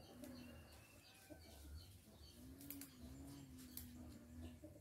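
Faint bird calls: a low, drawn-out cooing note lasting about two seconds from just before halfway, a shorter one at the start, and small high chirps.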